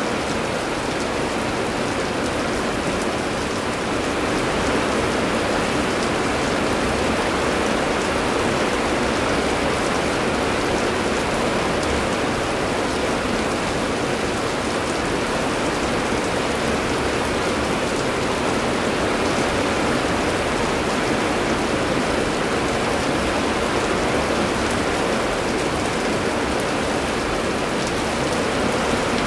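Heavy rain falling steadily on surfaces, a dense even hiss without thunder or any change in strength.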